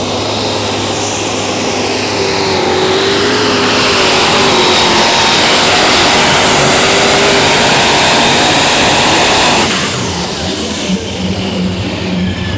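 Pulling tractor's Cummins 903 diesel V8 running flat out under load, with a high steady whine over it. It grows louder over the first few seconds and then drops off abruptly just before ten seconds in, when the throttle comes off, leaving the engine running lower.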